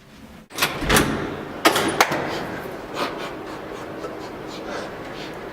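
A door being handled in a small room: a few sharp knocks and a bang, then a steady hiss of room noise.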